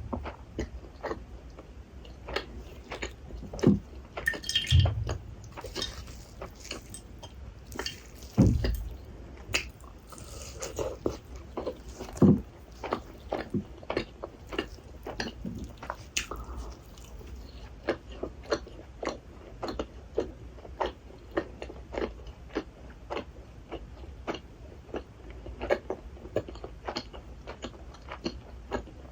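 Close-miked chewing of rasgulla, soft syrup-soaked cheese balls: a steady run of wet mouth clicks and smacks, two or three a second. A few louder bites or swallows stand out, about four, eight and twelve seconds in.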